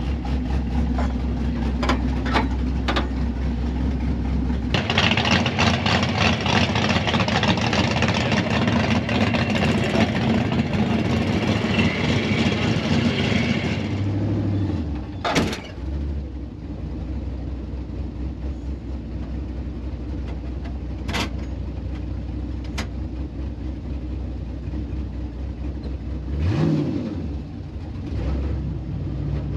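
Car engine idling in drag-strip staging lanes. There is a long stretch of louder running noise from about five to fourteen seconds in, and a quick rev near the end.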